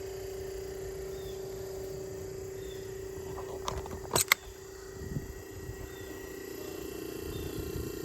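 Tecumseh hermetic compressor of a 1956 Fedders room air conditioner running with a steady hum, its fan motor disconnected so the compressor alone is heard. A few sharp clicks or knocks come about four seconds in.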